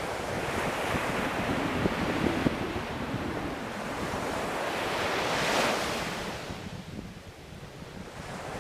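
Ocean waves breaking on a shore: the surf swells to a crash a little past the middle, then its wash fades away.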